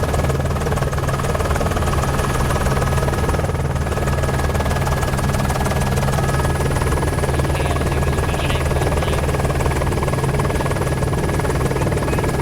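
News helicopter's engine and rotor running, a steady, unbroken drone.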